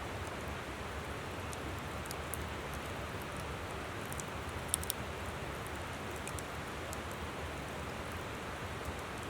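Wood campfire crackling, with scattered sharp pops and a louder pair about five seconds in, over the steady rush of a flowing river.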